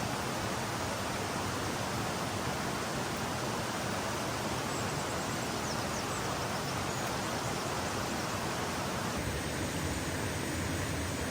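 A steady rushing noise that changes in character about nine seconds in, when a faint steady high tone joins it.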